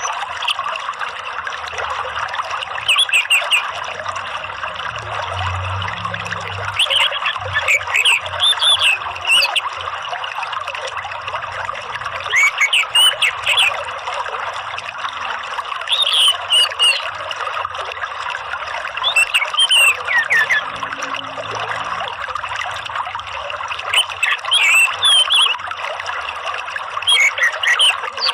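Steady running water with short orange-headed thrush song phrases, bright chirps with quick falling notes, repeating every three to four seconds. It is a lure-and-therapy track meant to prompt a caged thrush to sing.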